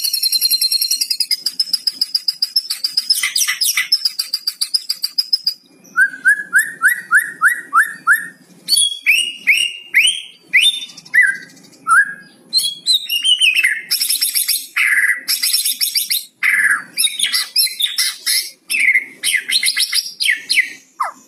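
White-rumped shama (murai batu) singing continuously. It opens with a dense buzzy rattle lasting about five seconds, then gives a run of about eight quick repeated slurred notes, then a string of varied whistles, sweeps and chattering phrases. This is the crackling 'kretekan' song used as a lure to set other shamas singing.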